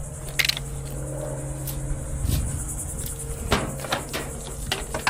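Several separate knocks and rattles of a scavenged fan being handled and wedged into a loaded vehicle, over a steady low hum and chirping crickets.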